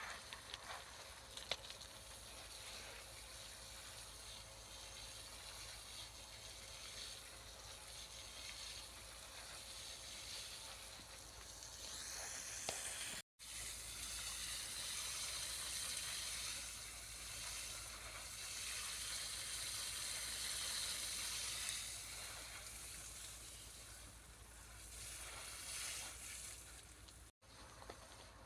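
Faint steady outdoor hiss with a few light clicks near the start, dropping out completely for a moment twice.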